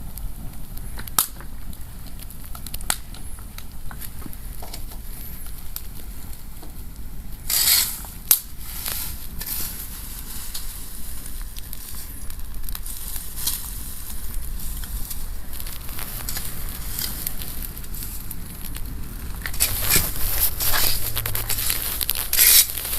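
Outdoor wood fire crackling with scattered sharp pops, and louder bursts of crunching and crackling about a third of the way in and again near the end.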